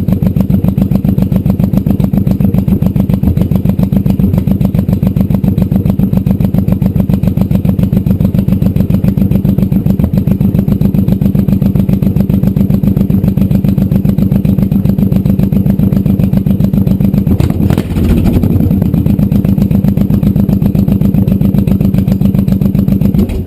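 Honda VTX 1800's big V-twin idling through its exhaust, a steady even pulsing, with a brief dip about eighteen seconds in. The sound cuts off abruptly at the end. The pair-valve (air-injection) port is being blocked off and opened in turns, which the owner expects to stop the exhaust pops and give a slightly deeper tone.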